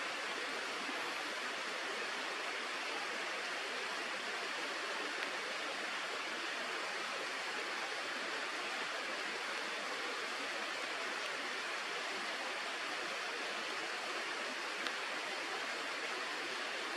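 River water rushing steadily, an even hiss with no change in level.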